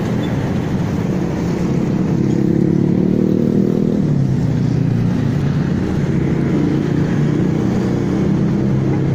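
Small motorcycle engine running at road speed, its note climbing for a couple of seconds and then dropping suddenly about four seconds in before holding steady, with road and wind noise.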